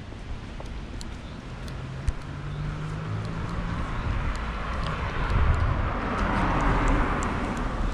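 A car passing along the street: a low engine hum, then tyre and engine noise growing louder over the last few seconds.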